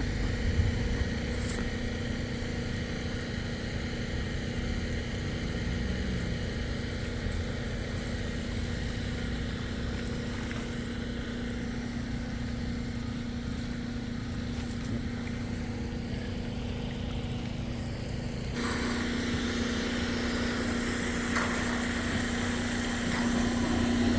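Dewatering pump running with a steady motor hum over a low rumble and a haze of rushing noise; about two-thirds of the way through, the sound suddenly turns brighter and the hum stronger.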